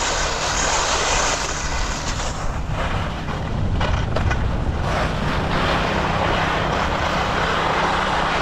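Skis side-slipping down a groomed race course, the edges scraping and pushing loose snow in a steady hiss, with a few harsher edge scrapes around the middle. A low wind rumble on the microphone runs underneath.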